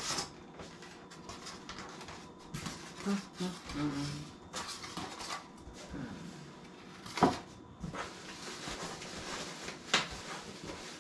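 Packaging being handled while a humidifier is unboxed: irregular rustling and scraping with a few sharp knocks, the loudest about seven seconds in and another about ten seconds in.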